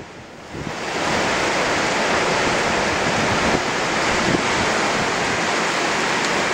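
Rough sea surf breaking and rushing in a strong wind, with gusts buffeting the microphone. A brief lull at the start gives way, about a second in, to a steady loud roar of surf and wind.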